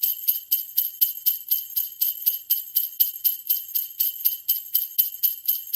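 Jingle bells shaken in a steady, even rhythm, about four shakes a second.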